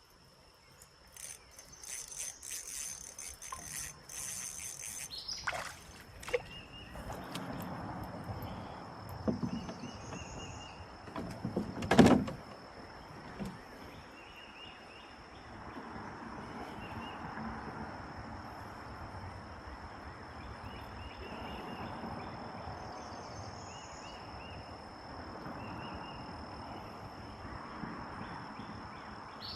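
Insects droning in one steady high tone, with short chirps repeating. Clattering in the first few seconds and one sharp knock about twelve seconds in, then a soft rushing noise.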